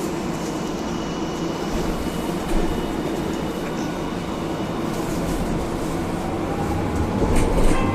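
Cabin running sound of a Hiroden 1000-series low-floor tram pulling away: steady wheel and rail rumble, with the Toyo Denki IGBT-VVVF inverter's whine rising in pitch near the end as the tram accelerates. A few sharp knocks come near the end.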